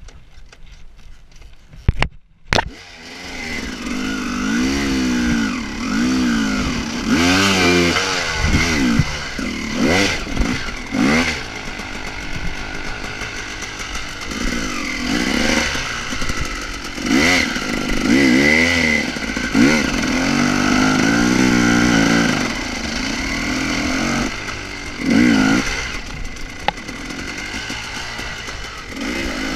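Husqvarna enduro motorcycle engine, loud and close, its revs rising and falling again and again as the throttle is worked on a rough trail. A sharp click comes about two seconds in, after which the engine grows loud.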